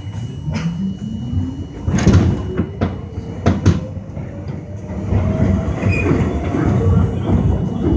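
R42 subway car picking up speed: the traction motors whine in a steadily rising pitch, over a rumble, with sharp clacks of the wheels over rail joints.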